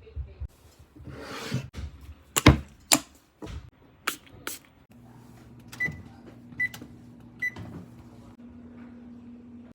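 Handling knocks and clicks, then a kitchen appliance starts a steady low hum, with three short electronic beeps a little under a second apart.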